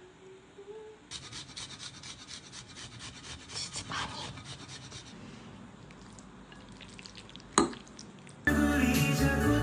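Utensil scraping and stirring against cookware in quick repeated strokes, then a single sharp click. Music starts near the end.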